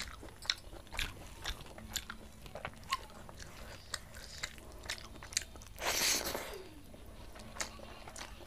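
Close-up eating sounds of a person chewing a mouthful of rice and soyabean-chunk curry, with many small wet mouth clicks, while fingers mix rice on a steel plate. A brief, louder rush of noise comes about six seconds in.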